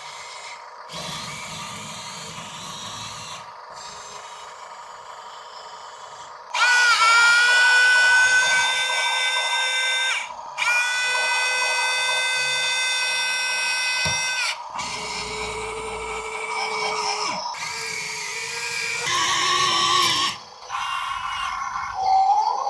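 Small electric gear motors of a 1/50-scale RC tracked dump truck whining. There are several separate runs of a few seconds each, and each rises quickly in pitch at the start and then holds a steady pitch. The first two runs are the loudest.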